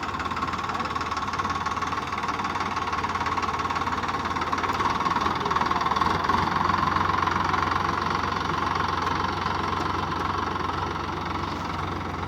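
Sonalika tractor's diesel engine running steadily with an even, knocking rumble.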